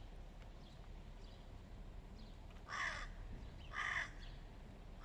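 Hooded crow cawing: two loud caws about a second apart in the second half, with a third starting at the very end.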